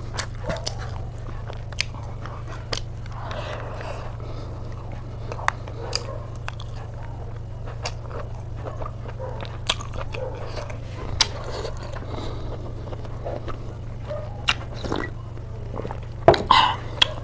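A person chewing and biting food close to the microphone: soft wet mouth sounds with many short, sharp clicks and crunches, the loudest cluster near the end. A steady low hum runs underneath.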